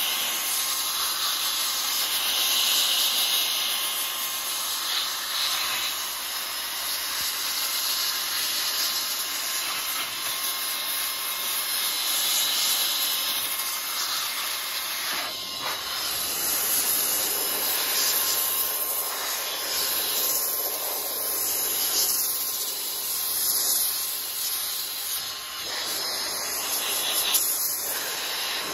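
A FIERCEVAC 2-in-1 battery air duster and vacuum running, a steady rush of air with a faint high whine from its fan motor.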